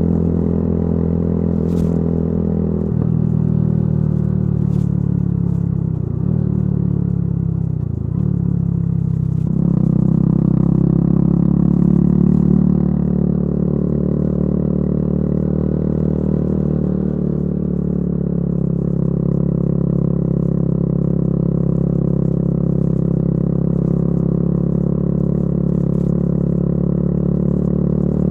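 Yamaha YZF-R125's single-cylinder four-stroke engine through a modified exhaust, under way. The engine note sags for several seconds, then picks up sharply about ten seconds in and runs at a steady pitch.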